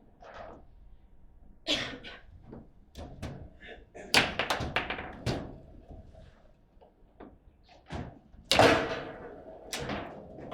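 Table football in play: the ball is struck by the rod figures and knocks off the table walls, giving an irregular run of sharp knocks and clacks. The two loudest come about four and eight and a half seconds in.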